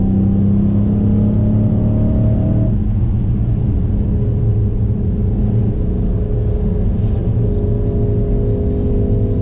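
Dodge Challenger Widebody's Hemi V8 heard from inside the cabin while lapping a track at speed, its pitch rising gently, then dropping and breaking up about three seconds in before settling into a steady drone, with road rumble beneath.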